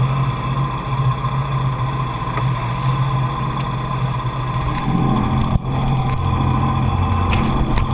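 Jet ski engine running steadily; about five seconds in its note shifts, with a deeper low tone joining in, and the sound cuts out for an instant just after.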